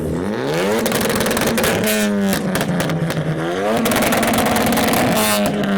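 Mark III Ford Focus ST engine revved hard twice. Each time the pitch climbs quickly and is held high, then falls back: the first drop comes about two seconds in, and the second comes near the end.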